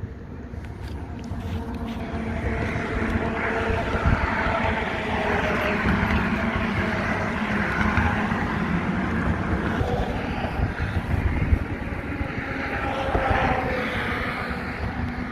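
Road traffic rushing past, swelling about two seconds in and staying loud for most of the stretch, with wind buffeting the microphone.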